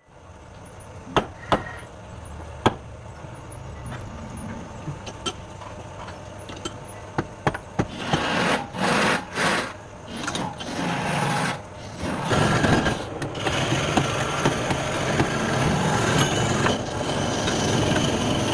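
A few sharp knocks, then a machine motor running in short bursts from about eight seconds in and running steadily from about twelve seconds in.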